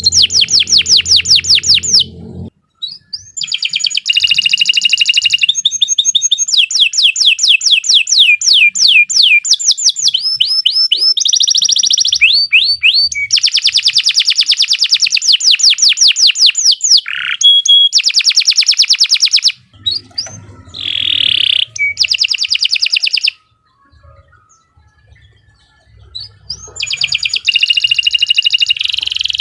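Domestic canary singing a long song of rapid trills, each phrase a fast run of the same note repeated many times, moving from one trill to the next. It breaks off briefly about two and a half seconds in, and for a few seconds around twenty-four seconds in.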